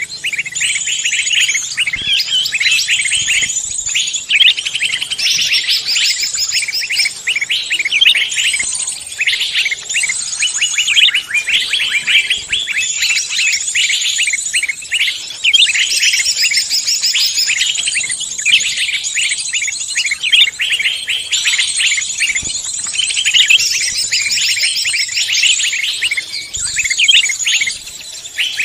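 Many forest songbirds chirping, trilling and singing at once, a dense high-pitched chorus of overlapping calls with no break. This is a mixed-species lure recording meant to draw other songbirds in.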